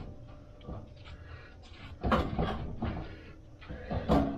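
Knocks and rattles of hardware being handled and fitted: a cluster starting about two seconds in and a sharper knock near the end.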